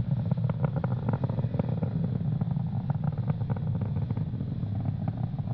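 Steady low rumble with fine crackling from the Falcon 9 first stage's nine Merlin engines in powered ascent, around max Q, the point of maximum dynamic pressure.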